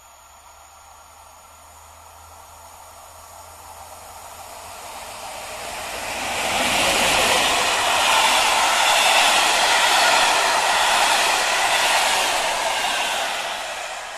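PKP EU07 electric locomotive and its passenger carriages passing by: the rush of wheels on the rails grows from faint to a steady loud rush about seven seconds in, then begins to fade near the end.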